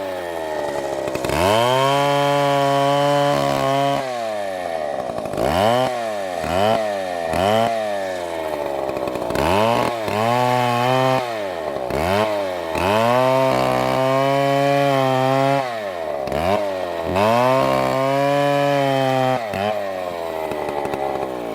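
STIHL MS720 two-stroke chainsaw engine revving up and down over and over, held at high speed for a second or two at a time with quick drops in pitch between.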